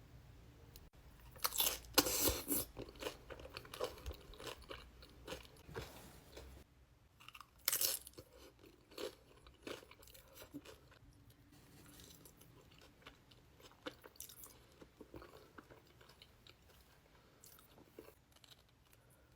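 A person biting into and chewing crunchy food close to the microphone, with wet crackling crunches. The loudest bites come about two seconds in and again near eight seconds, then quieter chewing follows.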